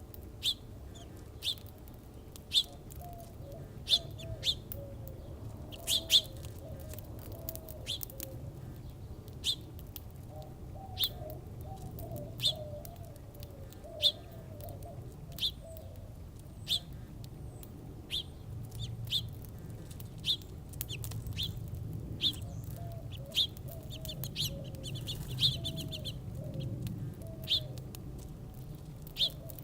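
Small birds at a backyard feeder chirping, one sharp high chirp about every second, with softer, lower warbling calls in several stretches.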